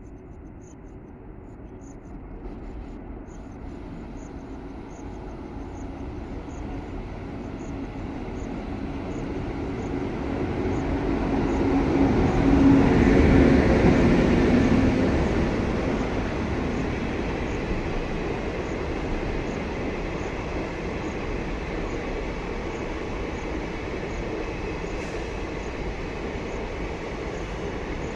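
A train hauled by a WAG9 electric locomotive passing. The rumble and rail noise build steadily, peak about halfway with a low steady hum, then ease off as the rest of the train keeps rolling past.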